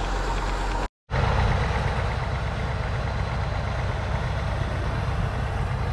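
A vehicle engine idling steadily, with an abrupt break about a second in before the idling resumes.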